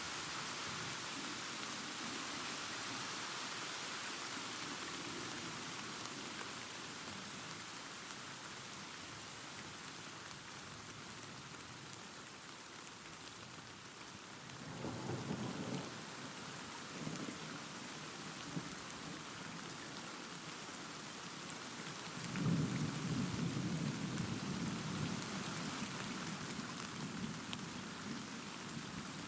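Steady rain falling with rumbles of thunder: a short roll about halfway through and a louder, longer roll a few seconds later.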